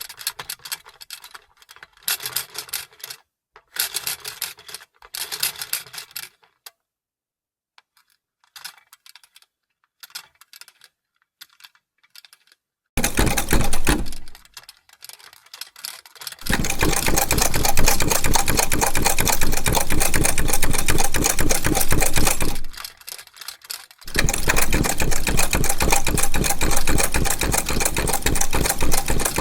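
Vintage sewing machine: scattered light clicks and short bursts of stitching during the first half, then a brief run, then the machine running fast with rapid even stitching for about six seconds, stopping, and starting again for the last five seconds.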